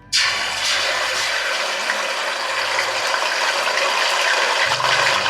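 Ginger-garlic paste sizzling in hot oil and ghee, starting suddenly as it goes into the pan and then sizzling steadily.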